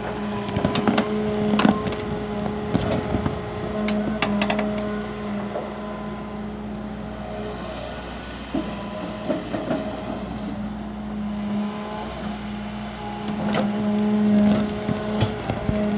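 Large excavator's diesel engine running steadily under load, with sharp clanks and knocks in clusters: early on, around four seconds in, and near the end.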